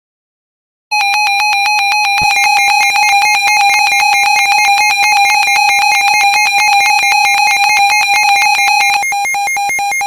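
Synthesized electronic alert tone, a buzzy single pitch pulsing rapidly, that starts about a second in and shifts to a slightly different pulse pattern near the end.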